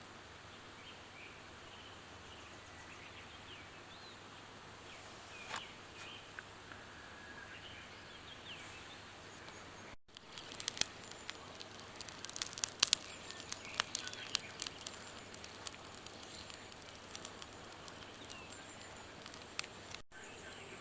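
Faint outdoor background with a few bird chirps, then, after a cut about halfway through, a wood fire crackling with many sharp irregular pops.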